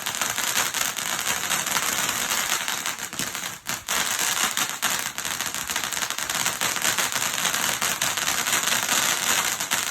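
Firework crackling densely and continuously, a steady hiss of countless tiny pops, with a brief lull about three and a half seconds in.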